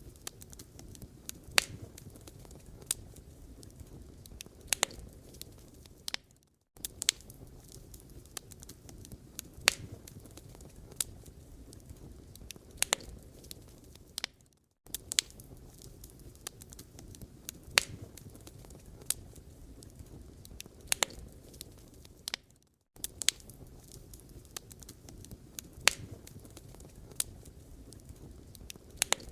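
Wood fire crackling in a fireplace: sharp pops and snaps over a low, steady rumble of burning logs. The sound cuts out briefly about every eight seconds.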